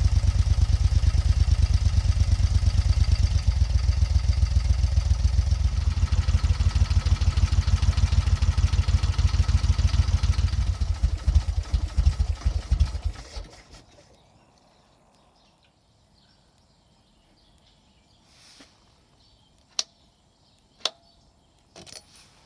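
Moto Guzzi California 850 T3's air-cooled 90-degree V-twin idling with an even beat. About eleven seconds in, the beat slows and the engine runs down to a stop over a couple of seconds. A few sharp clicks follow near the end.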